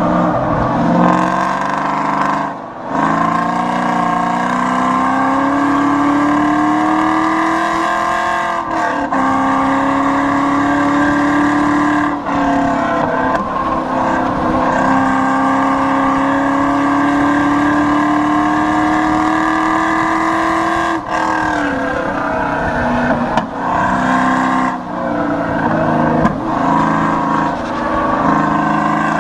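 Pontiac Firebird's LS1 5.7-litre V8, with modified intake and exhaust, driven hard on track. Its pitch climbs steadily under full throttle and breaks off at shifts or lifts a few times. Near the end it falls and picks up again in quicker, shorter swings as it slows for and drives out of corners.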